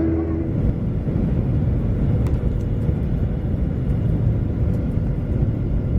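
Loud, steady rumble of Boeing airliner cabin noise, engines and airflow. A humming tone fades out about half a second in, leaving an even rumble.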